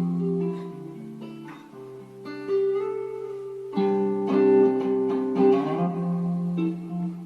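Guitar music: plucked and strummed chords struck several times, the notes ringing on between strokes.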